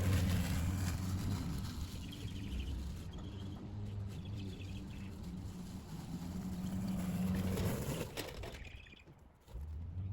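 Battery lawn mower's electric motor and blade running with a steady hum, then winding down and cutting out about eight to nine seconds in as its 5 Ah battery runs flat. Faint bird chirps in the background.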